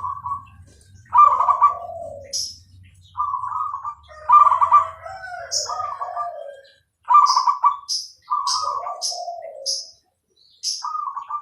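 Zebra dove (perkutut) singing its rhythmic cooing song, about six phrases in a row, each a short burst of coos stepping down in pitch. Short high chirps from another small bird are mixed in, and a faint low hum fades out about halfway through.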